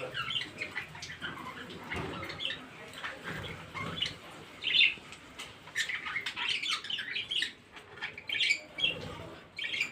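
Budgerigars chirping and chattering, many short calls in quick succession with a few sharp clicks, loudest about five seconds in.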